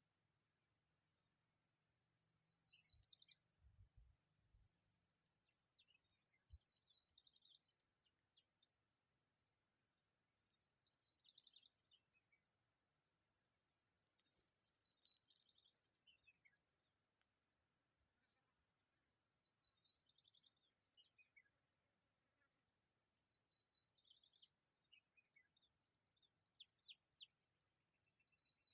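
Faint steady high-pitched insect drone, like cicadas or crickets, whose upper part drops out partway through. Over it, short bird call phrases of quick repeated notes and falling chirps recur about every four seconds. A few soft low bumps come in the first several seconds.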